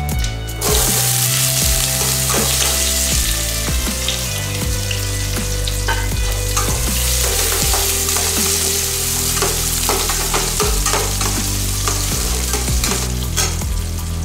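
Chopped shallots sizzling in hot oil in a stainless steel kadai. The sizzle starts suddenly about half a second in as they hit the oil, and a steel spatula clinks and scrapes against the pan as they are stirred. Background music plays underneath.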